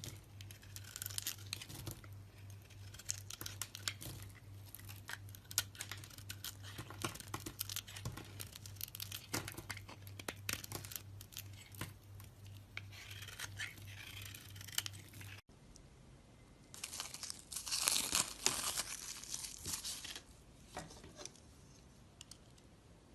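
A blade carving through a bar of soap: crisp scraping and crackling cuts made of many small clicks, with a low steady hum under the first part. After a sudden break, a louder run of crunchy cutting lasts about three seconds, then the cutting grows faint.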